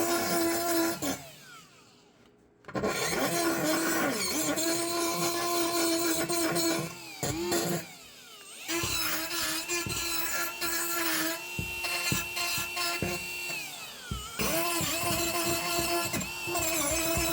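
Rotary tool with a carbide bit grinding on the rusty iron ice claw. Its motor whine holds steady, then winds down and starts up again three times.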